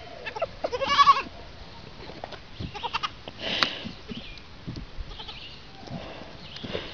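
Goat kids bleating, with one wavering, quavering bleat about a second in and a shorter cry about three and a half seconds in, among small knocks and rustles.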